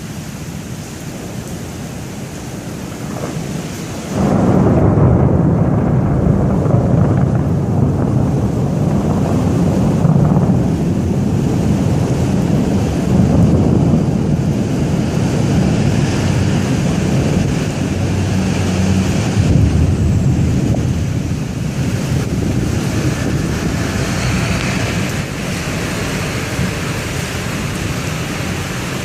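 Thunder from a nearby lightning strike breaks suddenly about four seconds in and rolls on as a long, deep rumble that slowly fades over some twenty seconds, over steady rain.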